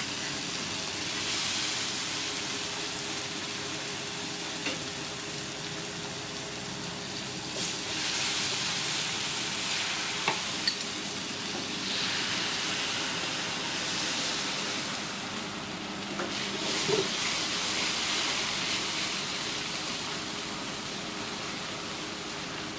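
Food frying in hot oil, a steady sizzle that swells and eases in waves, with a few short sharp clicks.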